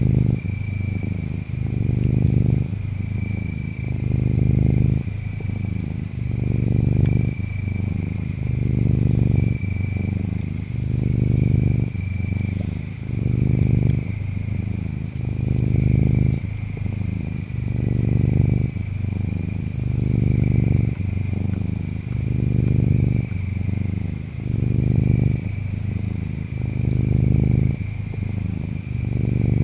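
A cat purring, a low rumble that swells and eases about every two seconds with its breathing. Behind it are steady insect chirps: a continuous high trill and repeated clusters of very high-pitched chirps.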